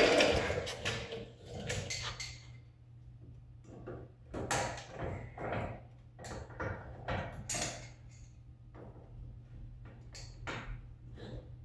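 Irregular clinks, knocks and clatter of metal parts and hand tools being handled, over a steady low hum.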